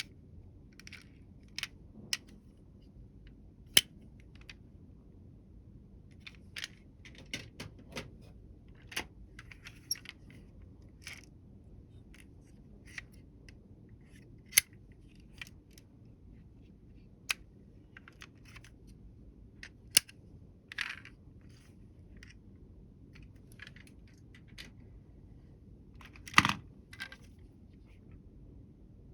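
Scattered clicks and taps of miniature toy vehicles being handled and set down, with a short louder clatter near the end.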